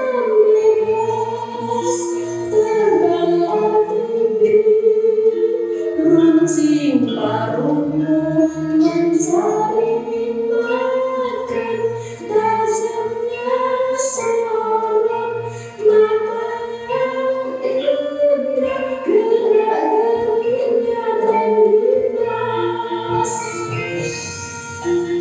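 Javanese gamelan accompaniment with sung tembang: a sustained, wavering vocal melody over layered pitched instruments, punctuated by sharp metallic strikes every second or two.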